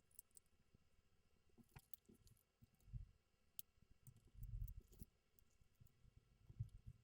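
Faint clicks of small plastic LEGO pieces being handled and pressed together, with a few soft low thumps.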